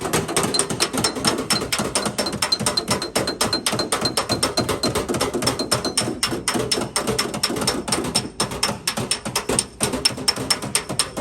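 Rapid, steady hammer taps on the sheet-metal body panel of a Chevrolet Optra, about six to eight a second, with a faint metallic ring in the first half: a dent being tapped down in paintless dent repair.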